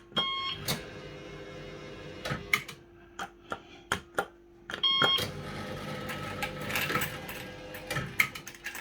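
Firecracker fruit machine running: short electronic beep chimes near the start and again about five seconds in, sharp clicks from the reel mechanism, and a steady hum underneath. The owner blames a reel deck fault, with the machine not nudging or recognising wins properly.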